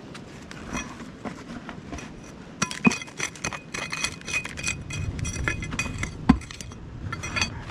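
A run of clinks and light knocks from hard objects, with a ringing tone that lasts about three seconds in the middle. There is a sharper knock near the start of the ringing and another about six seconds in.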